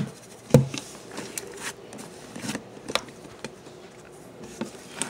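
Scattered clicks and taps of things being handled, with one louder knock about half a second in.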